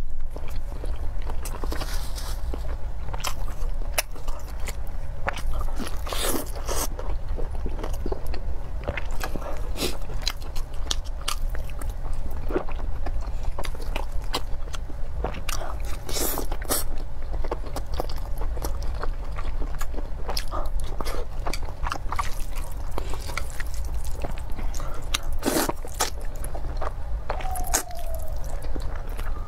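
Close-miked eating of braised pork belly and noodles: wet chewing and biting with many sharp mouth clicks and a few louder smacks, over a steady low hum.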